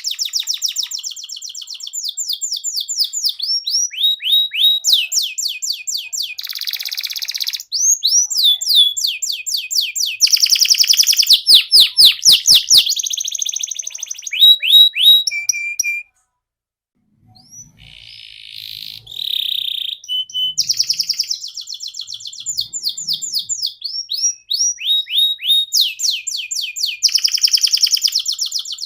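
Domestic canary singing a long, fast song of rapid trills and rolls made of quickly repeated sweeping notes. The song stops dead for about a second halfway through, then starts again.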